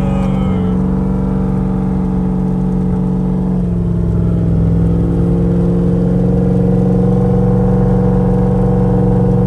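Turbocharged LS V8 running steadily, its note shifting slightly and growing a little louder part way through, with a noise the crew fears is a rod knock.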